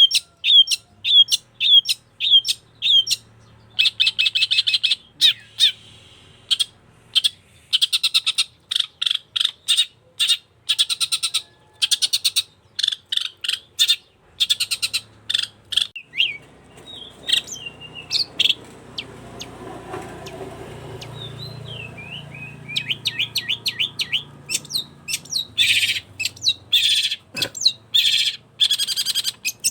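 Long-tailed shrike (cendet) singing busily in rapid strings of sharp repeated notes and harsh chattering strokes. It eases off about midway, then picks up again densely.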